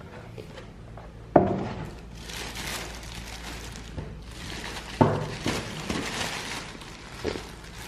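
Packaging and parts being handled: two sharp knocks, about a second in and about five seconds in, with a few lighter knocks and stretches of rustling and crinkling between them.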